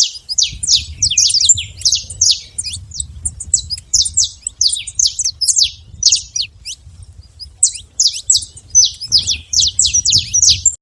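Saffron finch singing: quick runs of sharp, downward-sweeping notes, several a second, with a short break about halfway through. A faint low rumble sits beneath.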